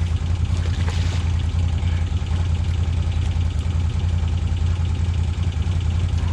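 ATV engine running steadily, a constant low hum with no revving.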